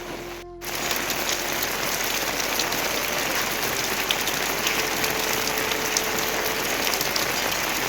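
Heavy rain falling, a dense steady patter of many drops. After a brief dropout about half a second in, it comes back louder.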